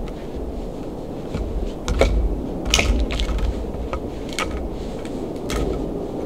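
Wood cracking and crunching: irregular sharp snaps, the loudest about two and three seconds in, over a steady low rumble.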